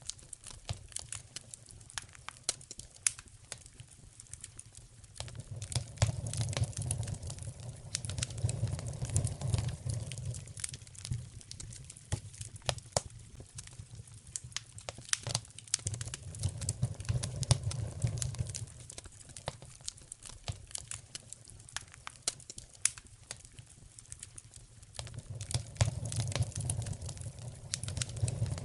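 Wood fire in a fireplace crackling and popping, with a low rumble that swells and fades three times, about every ten seconds.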